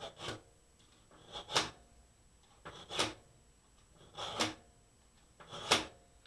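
A knife blade being sharpened: five long scraping strokes across a sharpener, evenly paced about one every second and a half.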